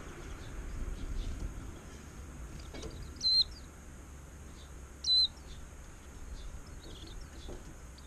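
Wild songbird giving two loud, short, shrill calls about two seconds apart, with fainter chirps after them.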